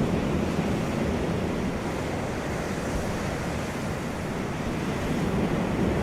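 Wind rushing across the microphone in a dense, steady noise that swells at the start and again near the end.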